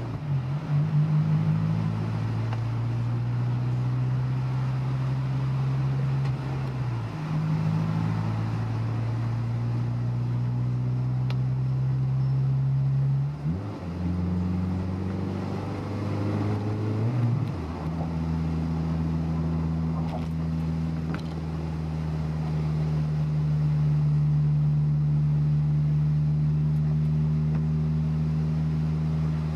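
Honda S2000's inline-four engine running steadily while driving. Its note shifts pitch abruptly a few times, with quick rises about halfway through, then holds steady for the last third.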